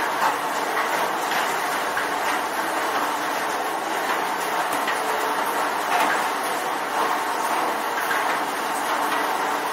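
Steady rain: a dense, even hiss of many raindrops striking, with a few louder single drop hits standing out.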